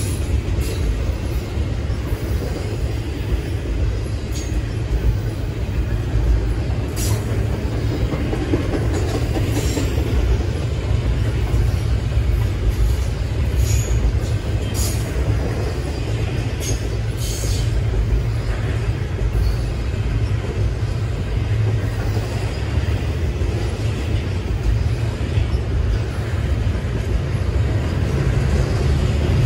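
Double-stack container train's well cars rolling past close by: a steady heavy rumble of wheels on rail, with brief high-pitched wheel squeals every few seconds.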